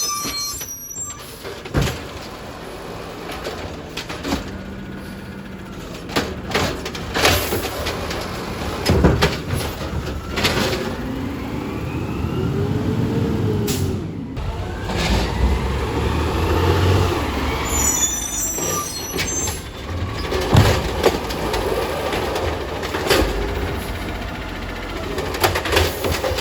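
Recycling garbage truck working: diesel engine running, with a whine that rises and falls near the middle, several sharp air-brake hisses and knocks.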